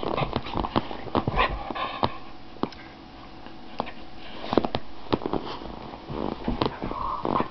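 A pet dog making a string of short, irregular noises through its nose and mouth, with a few brief whines among them.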